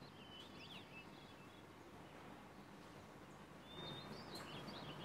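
Quiet room tone with faint birds chirping in the background: a few short chirps near the start and a cluster more in the last second.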